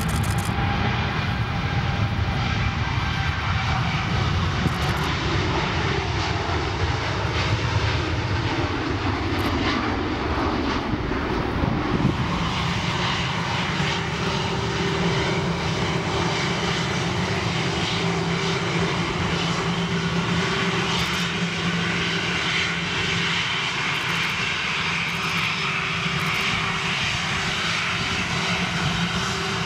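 Jet airliner engines running loud and steady with a constant rush, and a steady whine joining in about halfway through.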